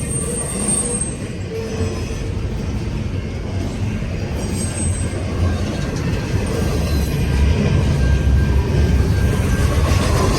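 Long intermodal freight train's well cars rolling past, a steady rumble with brief high-pitched wheel squeals near the start and about halfway through, the rumble growing louder in the second half.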